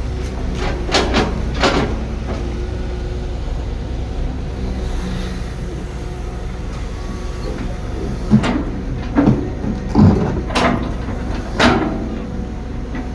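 Excavator diesel engine running steadily, with sharp metallic clanks and knocks: two about a second in, then a cluster of five in the second half.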